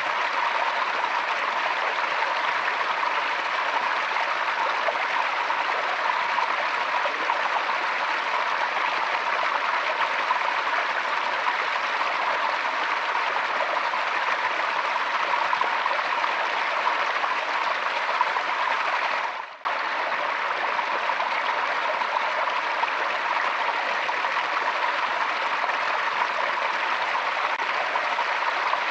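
A forest stream flowing in a steady rush, with a brief dip in level about two-thirds of the way through.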